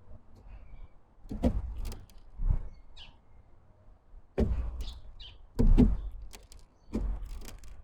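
Small birds at a wooden feeder: five dull knocks and thumps, about a second apart, with a few short high chirps in between.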